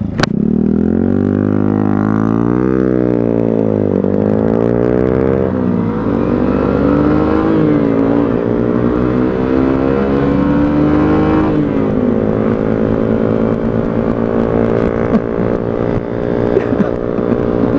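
125cc motorcycle engine accelerating while riding, its pitch rising and dropping twice at gear changes in the first few seconds, then holding a steady cruise, with wind and road noise.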